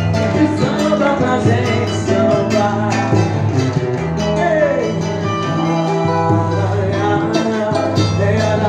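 Live music from a small band: plucked strings over a steady bass line, with percussion strokes keeping time and a voice singing.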